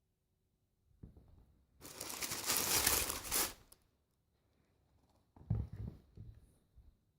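Shoe packaging being handled: a loud crinkling, tearing rustle of paper or plastic wrapping for about two seconds, then a few soft knocks of the box or shoes being set down.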